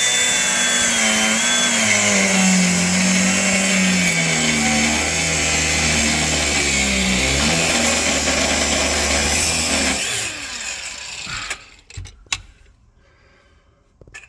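Cutting-disc grinder cutting through a seized steel clamp bolt on an exhaust front pipe, the motor's pitch dropping under load as the disc bites. It cuts for about ten seconds, then stops and spins down, with a few light knocks after.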